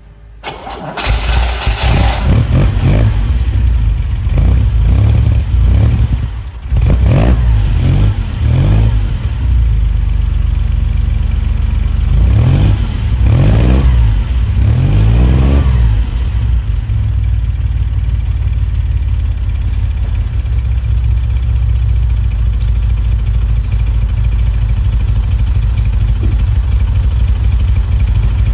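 Ferrari Dino 246 GTS's 2.4-litre V6 on a cold start: it catches about a second in and is blipped up and down several times, briefly faltering around six seconds in. From about sixteen seconds in it settles into a steady idle.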